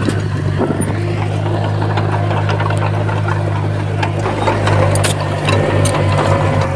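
Komatsu bulldozer's diesel engine running with a steady low drone, with scattered sharp clicks and knocks over it.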